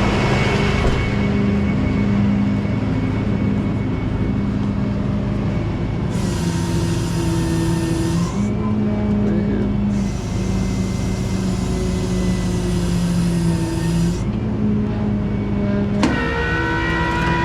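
Tow truck engine held at raised idle, running the hydraulic pump. Its pitched drone steps up and down as the hydraulic controls load it, with two stretches of higher-pitched hiss in the middle.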